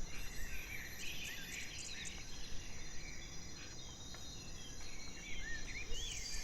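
Outdoor nature ambience: a steady high-pitched insect trilling, with short rising-and-falling bird chirps scattered through it and a low rumble underneath.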